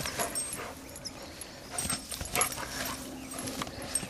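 A Rhodesian Ridgeback and a German Shepherd play-fighting: short scuffling sounds scattered through, with brief small dog noises.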